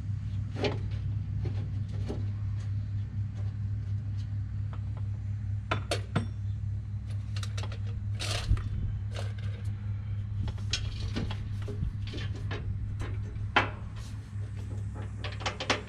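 Scattered light metallic clinks and taps of hand tools against steel as a center punch is worked into bolt holes to line up parts of a baler's pickup head, over a steady low hum.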